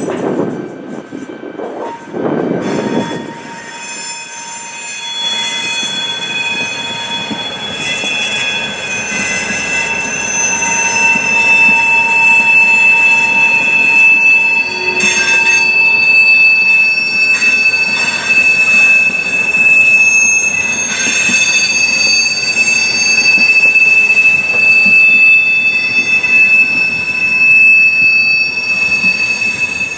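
Train wheels squealing as a train moves slowly over the track, several shrill tones at once that grow louder over the first dozen seconds and then hold.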